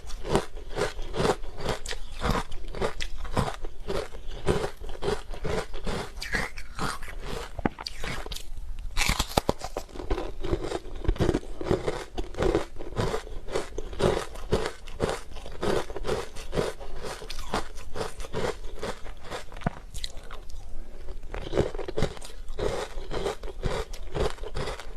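Close-miked chewing of hard frozen ice: rapid, continuous crunching, with a short pause about eight and a half seconds in followed by a sharp bite.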